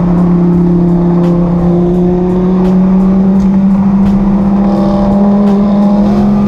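A car engine running steadily at mid-to-high revs under load, its pitch rising slowly and evenly as the car accelerates.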